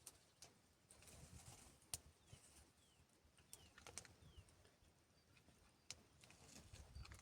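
Near silence with a few faint clicks and four short, faint falling chirps from a small bird near the middle.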